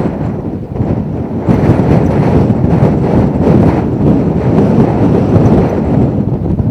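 Loud low wind noise buffeting the microphone, swelling and easing in uneven gusts, with a brief lull about a second in.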